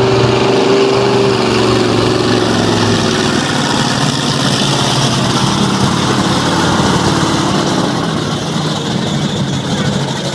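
Monster truck engine running loud and steady, its pitch easing down slightly over the first few seconds.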